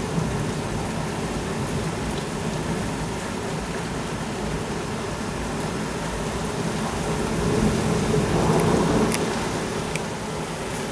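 Heavy thunderstorm downpour, rain pouring steadily. About eight seconds in, a low swell makes it louder for about two seconds.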